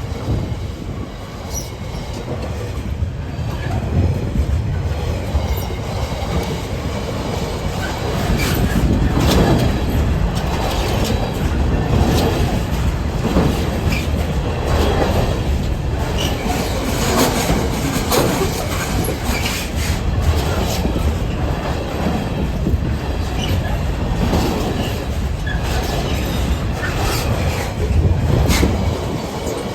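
Freight train hauled by Class 66 diesel locomotive 66752 passing over the level crossing: a heavy steady rumble with wagon wheels clacking over the rail joints again and again.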